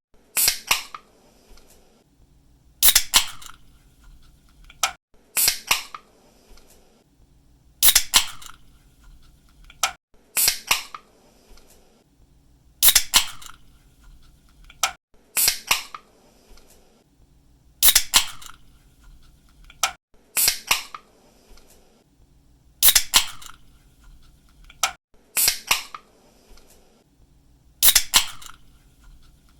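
Aluminium drink can's pull tab cracking open with a sharp snap and a brief fizz, repeated about every two and a half seconds.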